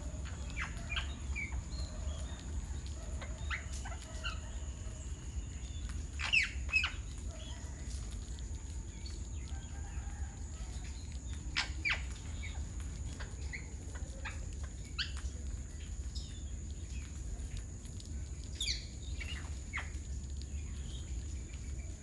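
Birds calling with scattered short, sharp chirps, several rising quickly in pitch, loudest a few times with pauses between. A steady high-pitched tone and a low rumble run underneath.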